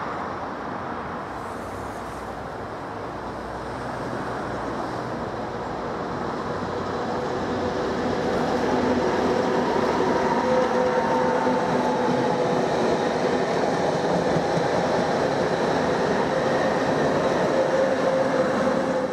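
Network Rail test train hauled by Class 73 locomotives passing close by: wheel and rail noise builds as it approaches, then holds loud with a steady whine while the coaches go past. The sound cuts off abruptly at the end.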